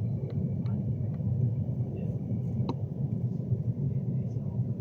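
Class 390 Pendolino electric train running, heard from inside the carriage: a steady low rumble of wheels on track, with a few faint ticks, the clearest a little past halfway.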